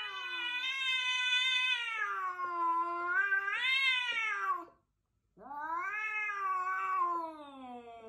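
Cat yowling at another cat in a face-off, a threat yowl. Two long, drawn-out cries that waver in pitch, with a short break just under five seconds in.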